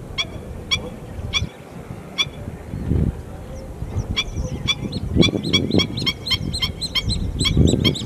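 Birds calling in a string of short, repeated calls, about two a second at first, then quickening into a rapid run of several calls a second from about four seconds in. A few low rumbles sound beneath the calls.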